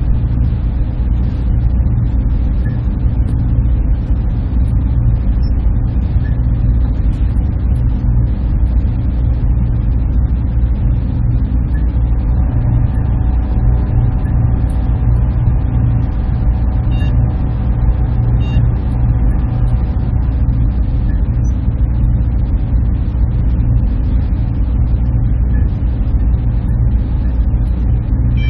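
Server room machinery running: a loud, steady low drone with a fainter hiss above it, unchanging throughout. A faint steady tone rises out of it from about twelve seconds in and fades again a few seconds before the twenty-second mark.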